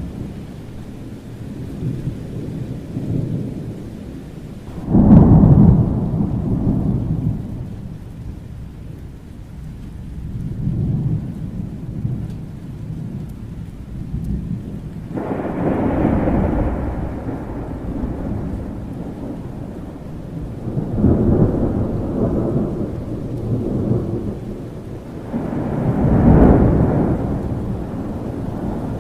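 Thunderstorm: rolling thunder rumbles over steady rain, with four peals, the loudest breaking suddenly about five seconds in and the others swelling and fading at intervals of roughly five to ten seconds.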